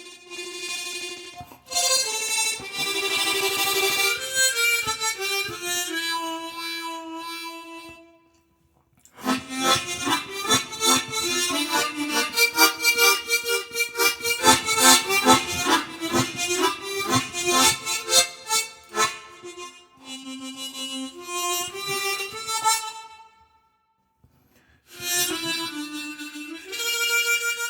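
Harmonica playing a slow melody in phrases, with several notes sounding together. There is a rapid pulsing through the middle passage and short breaks about 8 seconds in and near the end.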